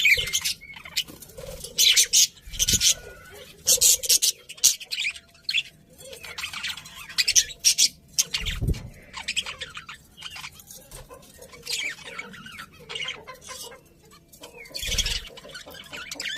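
Budgerigars chirping and chattering in quick irregular bursts of high calls, with three dull low thumps among them.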